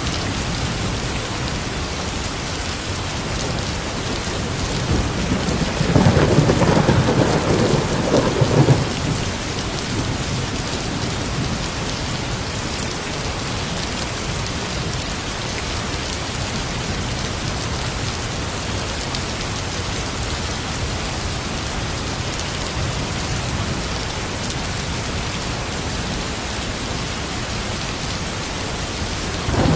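Steady rain falling, with a low rumble of thunder swelling up about six seconds in and fading after a few seconds.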